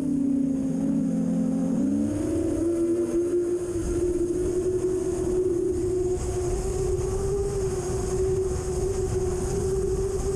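Seven-inch 6S FPV quadcopter's motors whining, dipping low in pitch and then rising about two seconds in to hold fairly steady with small wavers as the throttle is worked. A low rumble of strong wind runs under it, louder from a few seconds in.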